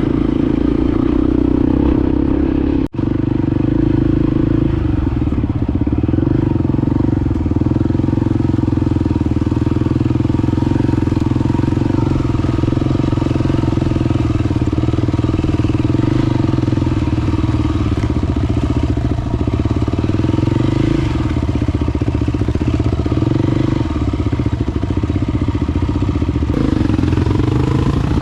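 Honda XR250 Baja's single-cylinder four-stroke engine running at a steady cruising pace while being ridden, with the sound cutting out for an instant about three seconds in.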